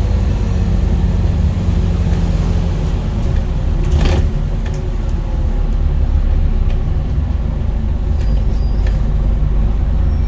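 Scania N230UD Enviro 400 double-decker bus running, a steady low rumble from its five-cylinder diesel with a whine that falls in pitch over the first couple of seconds. A single sharp knock about four seconds in.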